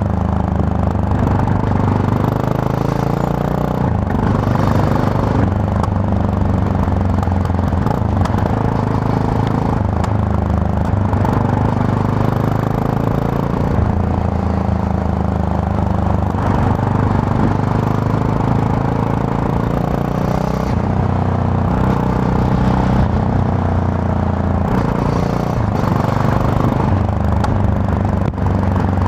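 Yamaha MT-03 motorcycle engine under way, heard from the rider's position, its pitch rising and falling repeatedly with throttle and gear changes over a steady hiss.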